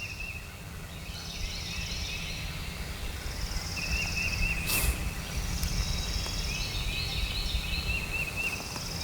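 Woodland birds singing at dawn: short warbling phrases repeated over and over, with high thin trills every couple of seconds, over a steady low rumble. A single sharp click sounds about halfway through.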